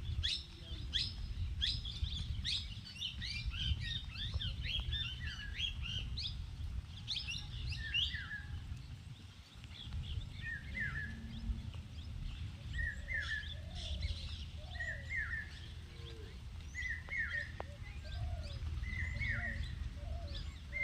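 Several birds chirping and calling: a dense run of quick high chirps for the first several seconds, then one bird repeating a short call about once a second with other calls, over a steady low rumble.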